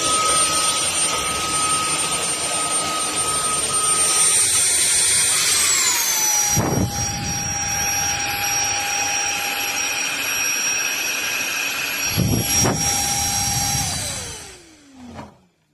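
Cordless stick vacuum's motor running at high speed with a rushing airflow hiss. About six seconds in it glides down to a lower speed, with two brief knocks along the way. Near the end it is switched off and winds down in falling pitch to a stop.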